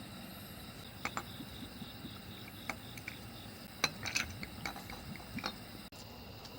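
Scattered light clinks and taps of utensils against dishes, a few at a time, busiest about four seconds in.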